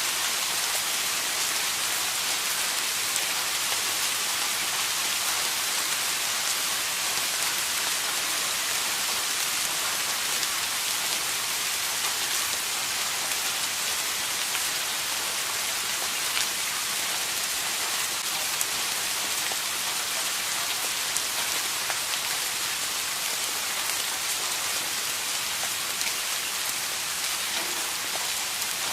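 Steady rain falling, an even hiss with scattered sharp drop ticks on a hard surface.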